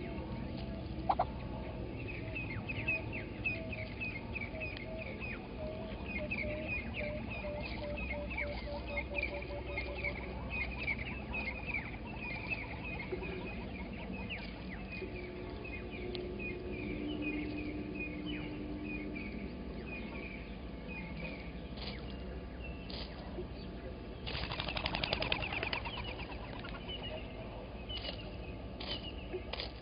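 Wild birds calling in the morning: one bird repeats short high chirping notes over and over, another gives a lower run of evenly spaced notes in the first third, and a brief louder fluttering burst comes about 24 seconds in.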